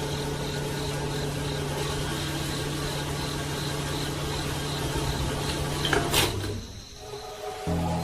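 A small electric motor running with a steady hum and a faint rapid ticking, switched off with a click about six seconds in.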